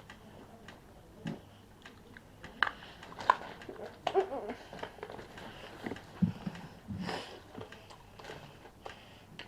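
Mouth sounds of someone eating an Everlasting Gobstopper jawbreaker: scattered faint clicks and crunches of the hard candy against the teeth, with a brief murmur about four seconds in.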